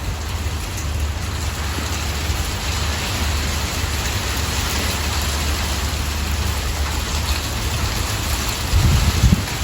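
Heavy sleet mixed with rain falling and pattering on surfaces in a steady hiss, with a low rumble for about a second near the end.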